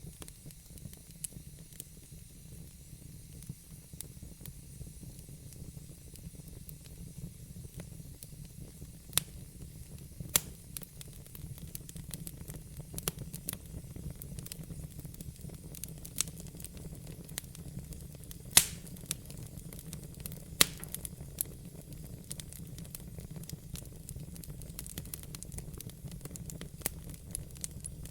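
Wood logs burning in a fireplace: irregular crackles and sharp pops over a steady low rumble of the fire, the loudest pop about two-thirds of the way in.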